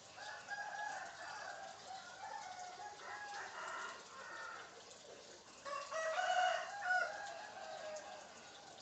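African grey parrot calling: a run of wavering pitched calls, with harsher, louder outbursts about three and a half seconds in and again around six to seven seconds in.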